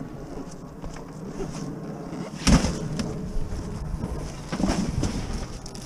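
A loud knock about two and a half seconds in and a couple of smaller thumps near the end, over a low steady hum.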